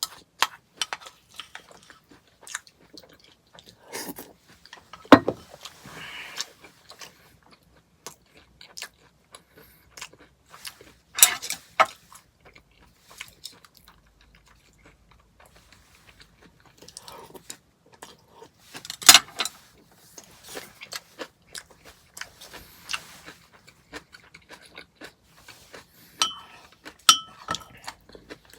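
Close-up chewing and crunching of granola cereal in hot milk, a run of small wet crackles and bites, with a few louder sharp clicks spread through it.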